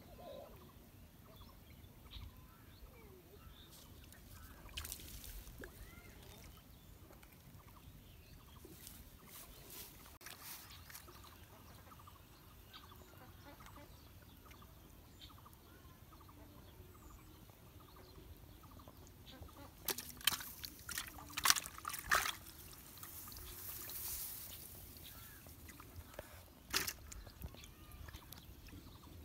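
Quiet outdoor ambience with faint bird calls, and a few sharp clicks and taps about two-thirds of the way through.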